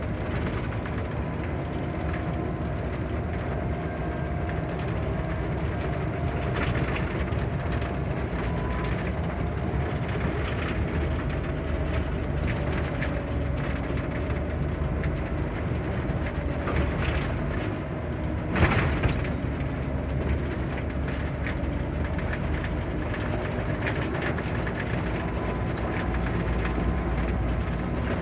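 Scania K94 bus with its Scania DC9 diesel engine and ZF automatic gearbox running steadily while driving, a whine wavering slightly in pitch over the drone. Light rattles throughout and a single sharp knock about nineteen seconds in.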